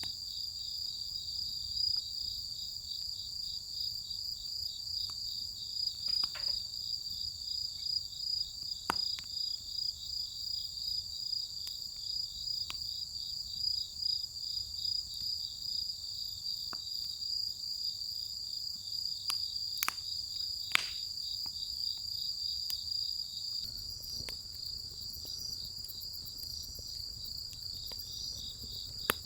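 Insects trilling steadily in a high, finely pulsing chorus, with scattered sharp pops and crackles from firewood burning in a steel fire pit, the loudest a little past the middle.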